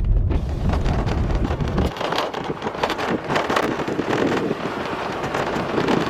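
Wind buffeting the microphone in uneven gusts, a rushing noise without any pitch.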